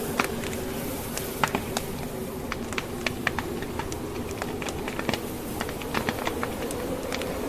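Wood fire crackling in a fireplace, with irregular sharp pops and snaps from the burning logs, several a second. Underneath, a steady, slightly wavering howl of blizzard wind.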